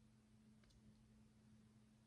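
Near silence: room tone with a steady low hum, and one faint click of tiny plastic building bricks being handled about two-thirds of a second in.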